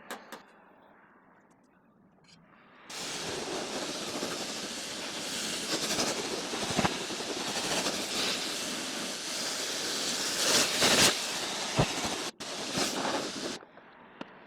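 Pressure-washer lance spraying a jet of water, a loud steady hiss that starts suddenly about three seconds in, breaks off briefly near the end and stops shortly before it.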